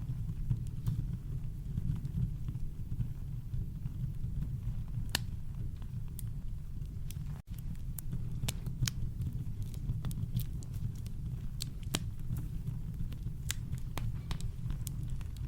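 Campfire crackling: scattered sharp snaps and pops over a steady deep brown-noise rumble, with a momentary dropout about halfway through.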